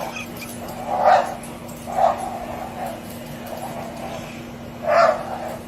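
A dog barking in short calls, three loud barks among softer ones.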